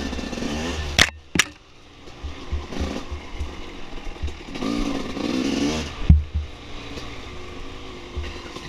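Dirt bike engine revving up and down while riding a trail, easing off briefly after two sharp knocks about a second in, with low thumps throughout.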